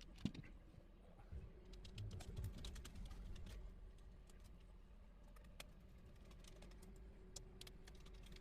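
Faint, scattered small clicks and a few soft knocks of iMac G3 parts and tools being handled during disassembly.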